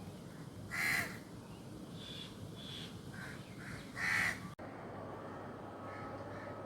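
Two loud, harsh bird calls about three seconds apart, with softer calls between them, over a steady rushing noise from the river. A little past halfway the sound cuts off abruptly and a steadier background with faint humming tones takes over.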